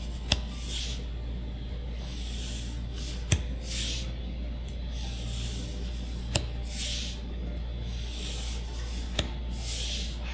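Trading cards being handled one at a time. About every three seconds there is a sharp tap, followed by a soft sliding swish, over a steady low hum.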